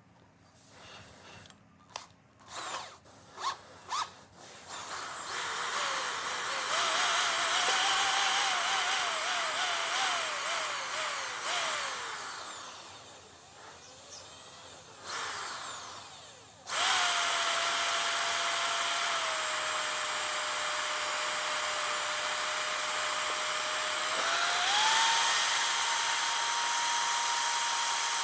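Handheld electric power tool: its motor is blipped briefly a few times, then runs with its pitch wavering up and down as it is worked against a part. It eases off, starts again sharply and runs steadily, dropping a little in pitch and then stepping up near the end.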